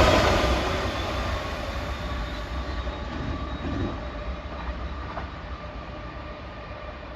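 A train going past and moving away, its rolling noise dying away steadily.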